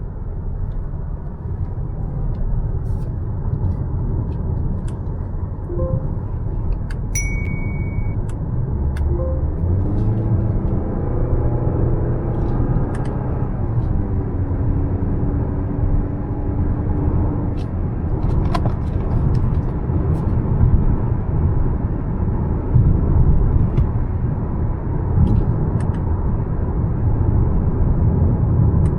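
Mazda CX-5's 2.5 e-SKYACTIV G four-cylinder engine and tyre rumble on the move. The engine note rises in pitch under acceleration about ten seconds in, then holds steady before fading back into the road noise. A brief high beep sounds about seven seconds in.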